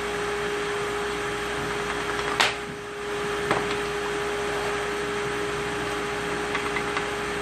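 A steady mechanical hum runs throughout, with a few sharp metal clinks, the clearest about two and a half and three and a half seconds in, from tools and cast main bearing caps being handled while an engine block's main caps are unbolted.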